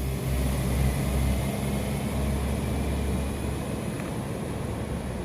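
Diesel train's engine drone, low and steady, growing weaker after about a second and a half.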